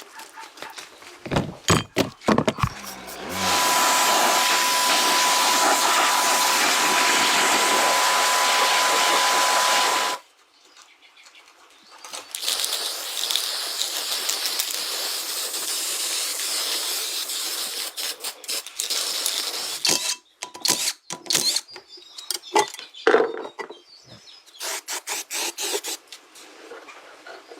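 Workshop tool noise: a steady hissing run of about seven seconds, a short quiet gap, then a second, softer hissing run, with scattered clicks and knocks around them.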